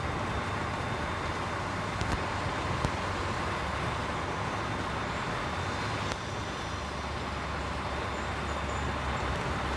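Diesel container truck's engine running steadily on the road, with a low hum and road noise, and a few faint clicks. The level drops slightly about six seconds in.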